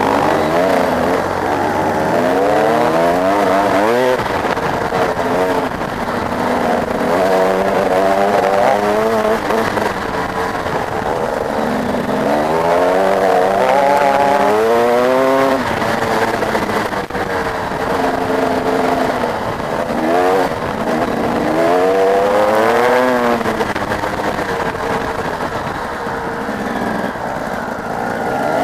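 Motocross bike engines revving hard, the pitch climbing in long rises as the bikes accelerate and dropping back between them, several times over.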